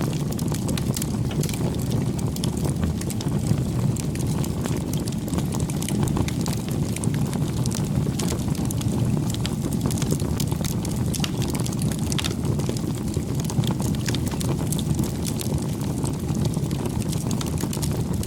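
Campfire burning steadily: a low, even rumble of the flames with frequent small crackles and pops from the burning wood.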